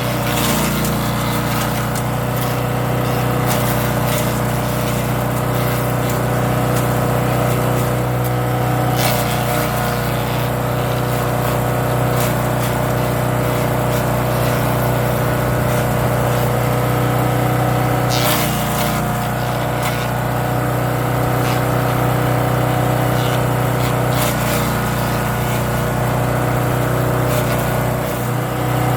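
Champion 224cc wood chipper's gas engine running at a steady speed, with a few sharp cracks as leafy branches are fed through and chipped.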